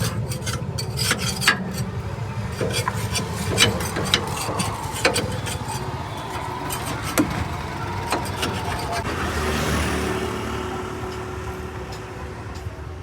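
A steady low engine hum with many sharp metallic clinks and knocks over the first eight seconds, then a hiss that swells and fades near the end.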